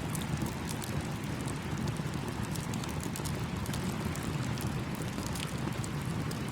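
A campfire crackling with many small, sharp pops, over the steady rush of a small stream.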